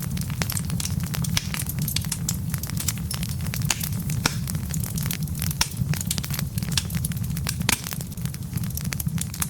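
Wood fire crackling in a fireplace: many irregular sharp pops and snaps over a steady low rumble of the burning logs.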